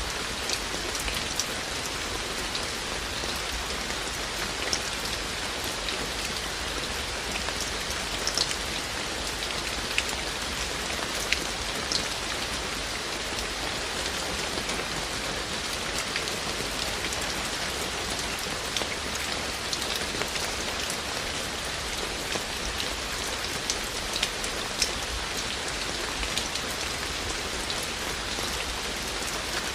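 Steady rain falling, with single drops ticking sharply now and then over the even hiss.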